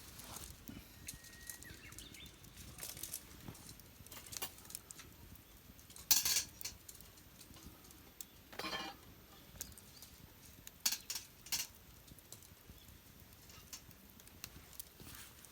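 Scattered light clicks, taps and rustles of small objects being handled, with two louder scraping rustles about six and nine seconds in.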